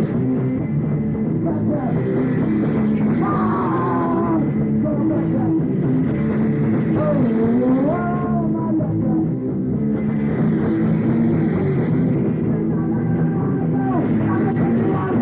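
A rock band playing live: loud, dense, sustained chords with notes bending up and down in pitch.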